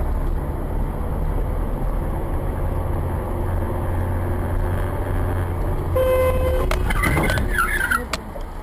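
Steady low rumble of a car's engine and road noise heard from inside the cabin. About six seconds in a car horn sounds briefly, followed by a jumble of wavering higher sounds and a few sharp clicks near the end.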